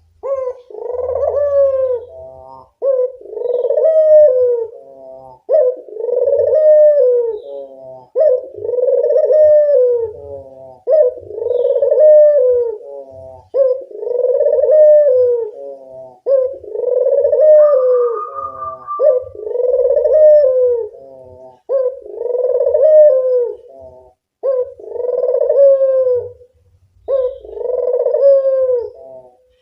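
Local puter dove (collared dove) cooing: the same rising-and-falling coo repeated about every two and a half seconds, each ending in a short stutter.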